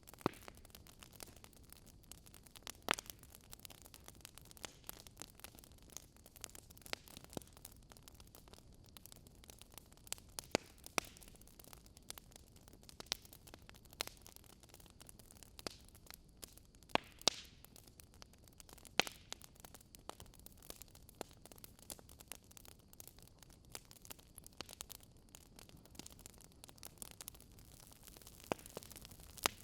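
Campfire crackling: irregular sharp pops and snaps from burning wood, a few louder than the rest, over a faint steady hiss.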